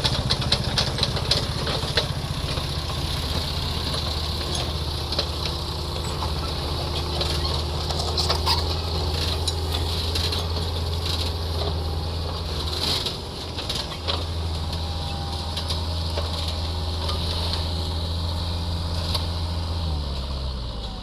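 Kubota mini excavator's diesel engine running steadily, with scattered short clicks and clanks over it. About twenty seconds in, the engine note drops to a lower speed.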